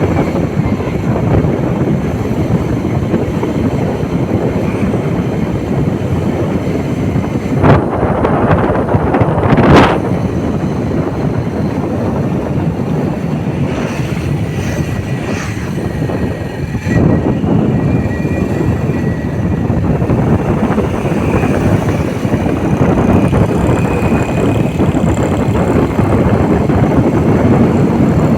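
Wind rushing over the microphone on a moving bike, a steady loud roar of noise, with two sharp knocks about eight and ten seconds in.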